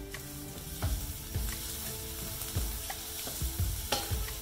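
Onion-and-spice masala sizzling in hot ghee and oil in a stainless steel saucepan as it is stirred, with the stirring utensil knocking and scraping against the pan about six times.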